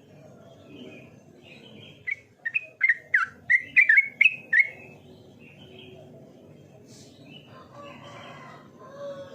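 Sooty-headed bulbul (trucukan) singing: a quick run of about ten loud, clear notes about two seconds in, lasting under three seconds, with softer calls before and after.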